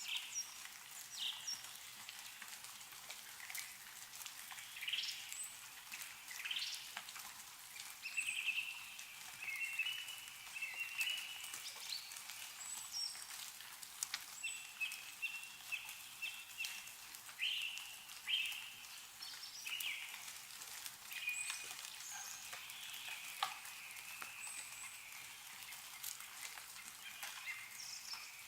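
Small birds chirping and calling over and over, with meltwater dripping from snow-laden trees in scattered light taps.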